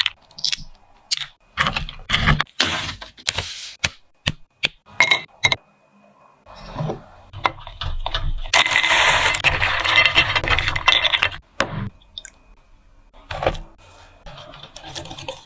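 Snacks and their packaging being handled: a run of sharp clicks, crinkles and scrapes, with a longer dense rustle from about eight and a half to eleven and a half seconds in.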